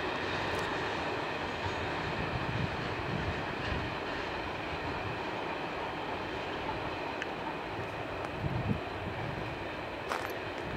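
Freight train wagons rolling along the track: a steady rumble of wheels on rail that slowly fades as the train draws away. There are light gusts of wind on the microphone near the end.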